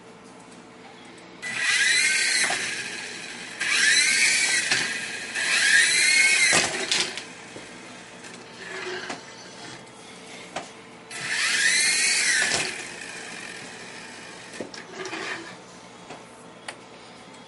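Small electric rotor motors of a Black Dragon Star M 0920 radio-controlled toy helicopter whining in short bursts, each rising and then falling in pitch as the rotors spin up and slow down. There are four strong spin-ups and two weaker ones.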